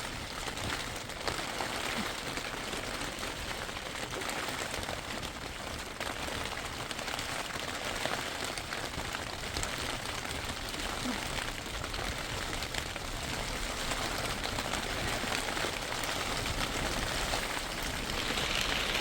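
Steady rain falling, an even patter with no let-up.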